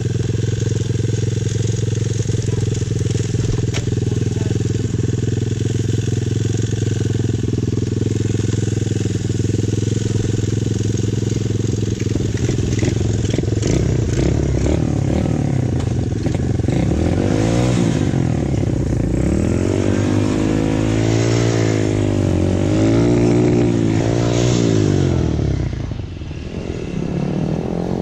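Motorcycle engine idling steadily for about fourteen seconds, then repeatedly rising and falling in pitch as it is throttled up and eased off, with a short drop near the end before it climbs again.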